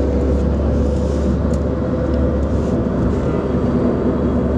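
Steady low rumble of a car driving, its engine and road noise heard from inside the cabin, with a faint steady hum above it.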